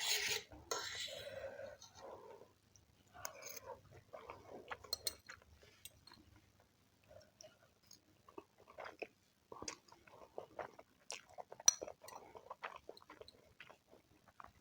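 Close-miked eating sounds: chewing with wet smacks and mouth clicks. A loud rushing burst comes at the very start, and short irregular clicks follow.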